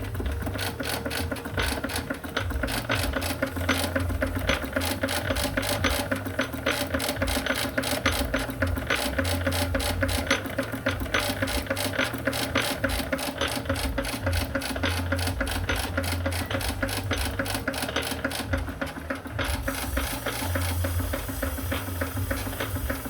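3.5-inch twin-cylinder live-steam traction engine running, its motion and exhaust beating in a fast, even, clattering rhythm. A hiss joins in about twenty seconds in.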